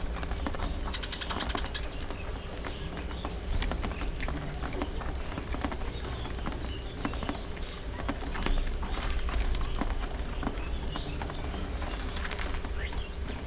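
A flock of budgerigars chirping and chattering, with many short high calls scattered throughout and a quick run of rapid ticks about a second in, over a steady low hum.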